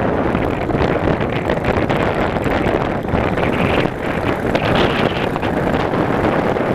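Wind rushing over the microphone of a Yamaha motorcycle under way, with the engine running underneath as a steady, even noise.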